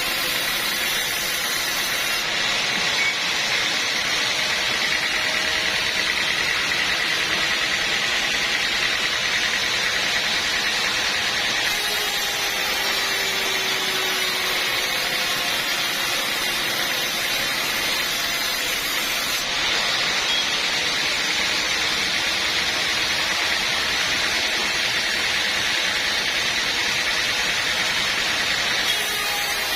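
Sawmill machinery running steadily, a continuous mechanical noise with a hiss and a faint steady whine.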